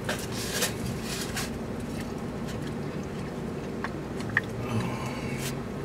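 A person chewing fried food, with a few short crunchy clicks in the first second or so, over a steady low hum inside a car.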